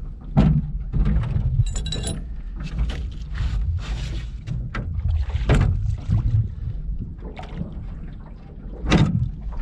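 Irregular knocks and clunks in a small rowboat over a steady low wind rumble on the microphone.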